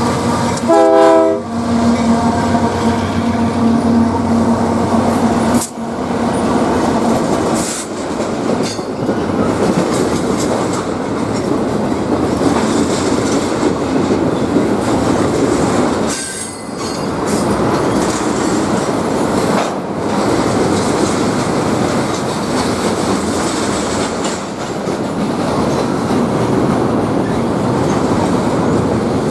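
Train horn sounding a steady chord for about the first six seconds, then cutting off; after that a passing train's rumble with wheels clattering over the rail joints and some wheel squeal.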